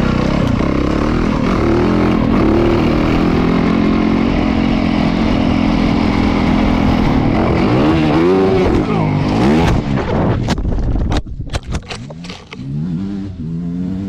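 Motorcycle engine running steadily, then revving up and down twice. About ten seconds in comes a quick series of sharp clattering knocks, after which the engine is quieter and blips a few more times.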